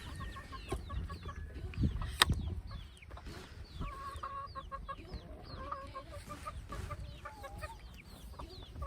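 A flock of chickens clucking in quick runs of short notes, over a constant chatter of high, falling chirps from many birds. A single sharp knock about two seconds in.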